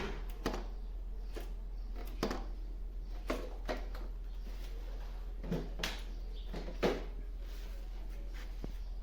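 A steady low hum with scattered light knocks and clicks at irregular intervals, about eight in all; the sound cuts off abruptly near the end.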